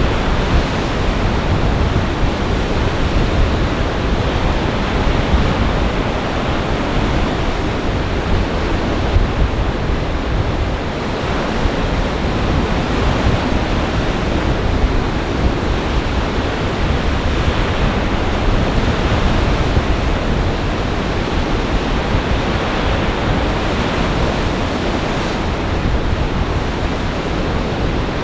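Lake Michigan waves breaking continuously in a gale, with the wind rumbling on the microphone. The sound is a steady, loud wash of surf.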